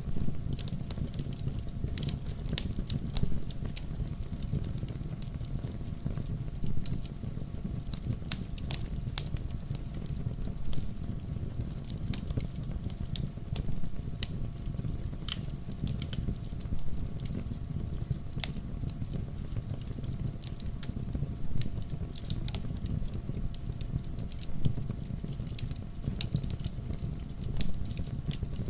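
Wood bonfire burning: frequent sharp crackles and pops, several a second, over a steady low rumble.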